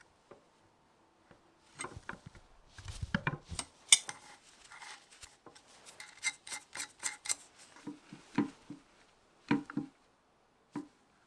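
Small metal parts and tools clinking and knocking irregularly against each other and a hard surface, with a run of quick sharp clicks in the middle and a few separate knocks near the end.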